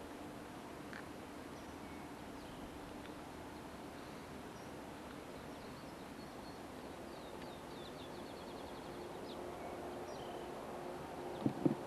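Outdoor ambience under steady tape hiss, with faint scattered bird chirps and a quick trill about seven seconds in. Two sharp knocks come just before the end.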